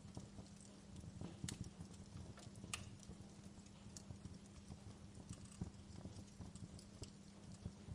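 Wood fire crackling: irregular small crackles with a few sharper pops, the loudest about a second and a half and nearly three seconds in, over a low steady hum.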